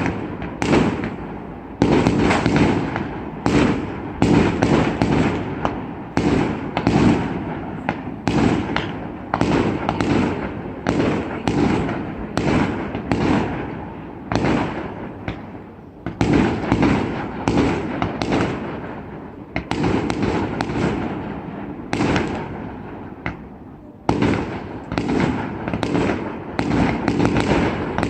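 Fireworks display: a rapid barrage of aerial shells bursting, loud bangs about two a second, each trailing off in reverberation. The barrage thins briefly about halfway through and again about three quarters through, then picks up again.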